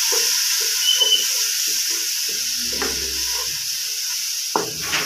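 Onion and green-chilli masala sizzling in a non-stick kadai, stirred with a wooden spatula in quick scraping strokes, about three a second. There is a single knock against the pan near the end.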